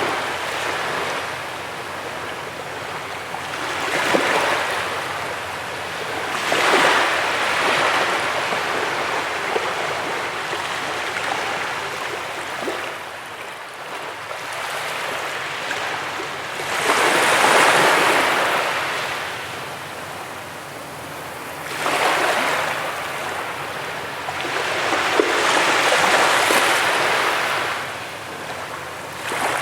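Sea waves breaking and washing up a beach, the surf swelling and falling back about five times, with slow, uneven gaps between the swells.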